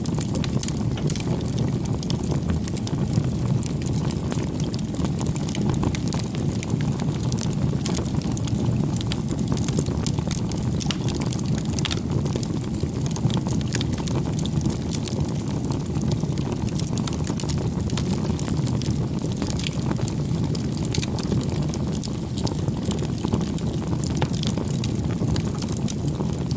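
Wood campfire burning steadily, a low rumble of flames with many small sharp crackles and pops from the burning wood.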